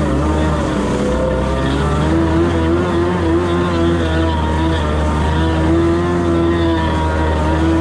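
Two-stroke jet ski engine running out on the water, its pitch rising and falling as the throttle varies, over a steady low rumble.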